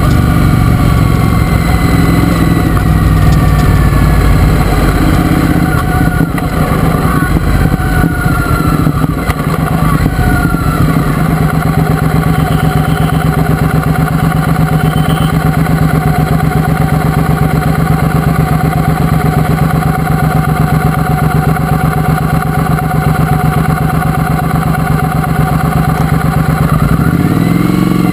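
Triumph Speedmaster's parallel-twin engine with its pitch falling as the bike slows over roughly the first ten seconds, then idling steadily while stopped. Near the end the revs rise briefly.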